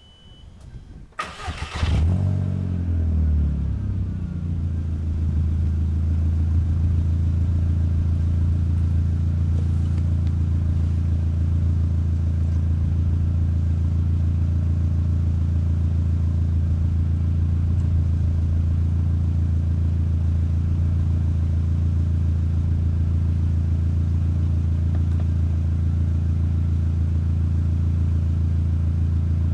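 Volkswagen Golf Mk4 GTI engine with a Borla aftermarket exhaust starting: a short crank about a second in, a brief rev flare as it catches, then it settles into a steady idle.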